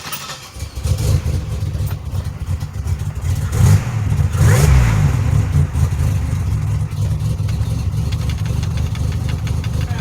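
Pontiac Grand Prix GT's V6 engine starting from cold: it catches about a second in, flares up in revs and back down near the middle, then settles into a steady idle with the cam plainly heard.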